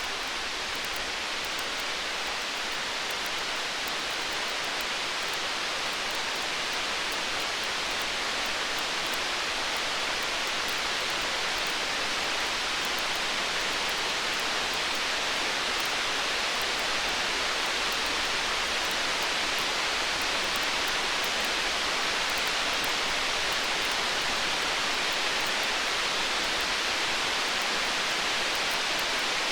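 Steady hiss of rain, swelling slightly, with faint scattered crackles of a wood fire; no thunder.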